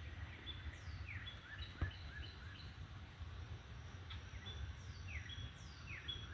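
Faint chirping of small birds: many short, downward-sliding chirps repeating, over a low steady rumble, with one light knock about two seconds in.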